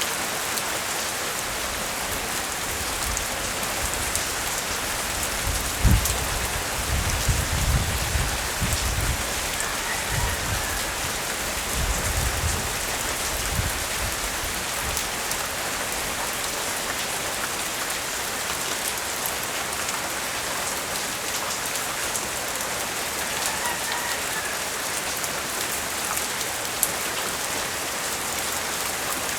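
Steady rain falling, an even hiss of drops on surfaces. For several seconds in the first half, a few low rumbles rise under it.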